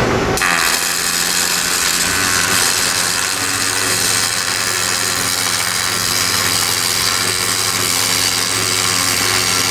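Robotic arc weld joining a copper tube to a steel connector: the arc strikes about half a second in and keeps burning as a steady hiss with a low electrical hum underneath.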